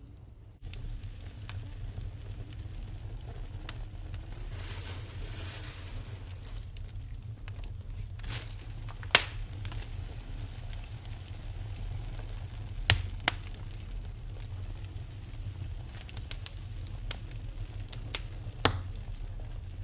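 Wood fire in a fireplace crackling over a low steady rumble, with scattered sharp pops, the loudest about nine seconds in and a few more later on, and a soft hiss a few seconds in.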